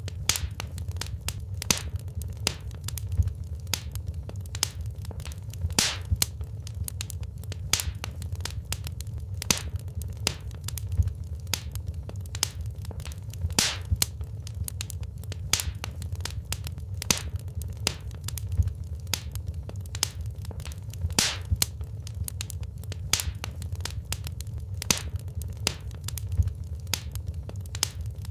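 Wood fire crackling in a fireplace: irregular sharp pops and snaps, several a second, over a steady low rumble of burning logs.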